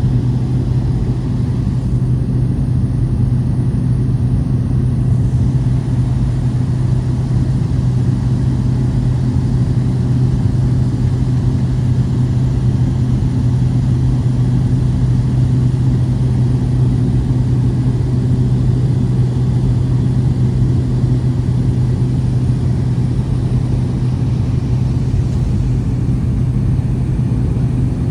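Small plane's engine and propeller droning steadily with an even low hum, heard from inside the cabin in cruising flight.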